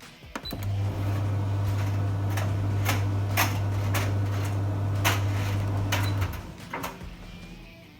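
Beko condenser tumble dryer running: a steady electric motor hum with scattered knocks and clicks from the drum, cutting off about six seconds in.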